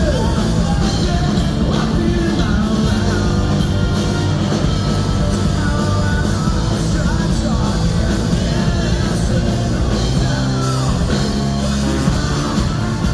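Ska-punk band playing live at full volume, with drums, bass, guitars and a sung vocal line over them.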